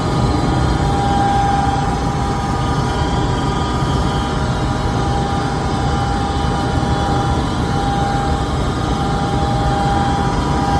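Gas furnace running with its burners lit: a steady rush with a steady whine over it. The burners stay lit now that the igniter and flame sensor have been cleaned with steel wool.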